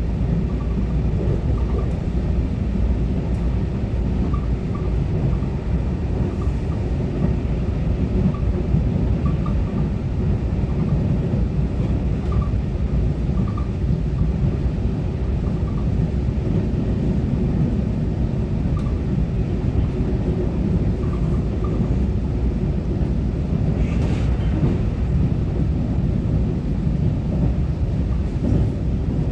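Taiwan Railway EMU900-series electric multiple unit running at speed between stations, heard from inside the carriage: a steady low rumble of wheels on track, with faint intermittent high tones and a brief hiss about 24 seconds in.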